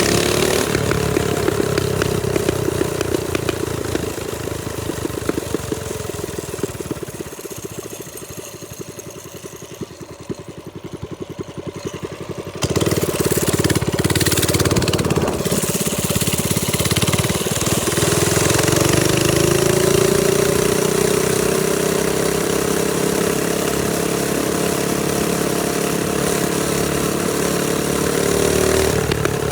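Trailmaster Storm 200 minibike's small single-cylinder engine running under way. The engine eases off and gets quieter for several seconds, then comes back loud and sudden a little under halfway through. Its pitch climbs steadily over the second half as it speeds up.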